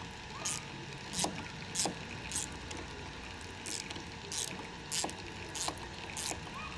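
Flathead screwdriver working a screw on a motorcycle's front fork, making a series of short, sharp clicks and scrapes about every half second as the screw is turned loose.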